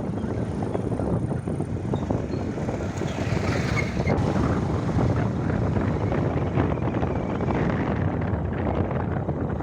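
Motorcycle running along a road, with wind rushing over the microphone.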